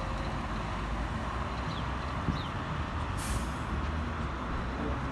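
Steady road traffic noise from passing vehicles, with a short sharp hiss about three seconds in.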